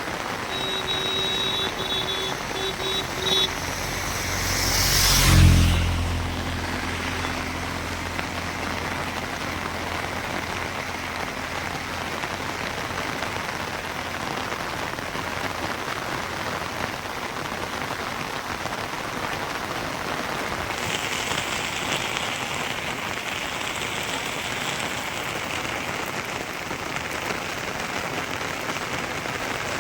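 Steady rain falling. About five seconds in, a vehicle passes close, its sound swelling and then fading. A few short beeps come in the first three seconds.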